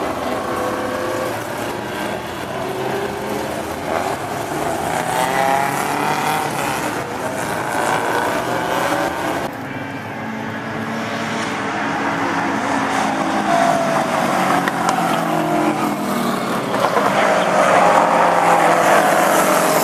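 Several Group A and Group C touring race cars' engines running on the circuit, revving and passing, with the pitch rising and falling as they go by. There is a sudden change in the sound about halfway through.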